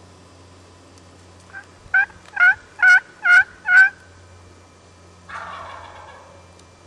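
A run of turkey yelps: a faint lead note, then five loud, evenly spaced yelps about half a second apart, each note breaking from high to low. About five seconds in comes a short raspy noise that fades out.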